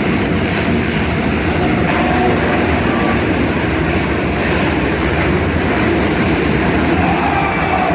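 Several dirt bike engines running in a race, a loud steady din with engine pitches rising and falling.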